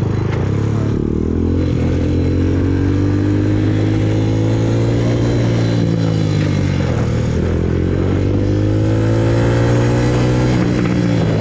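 Suzuki RM-Z250 dirt bike's four-stroke single-cylinder engine running under throttle. Its pitch rises about a second in and holds, dips briefly around seven seconds in, then climbs again.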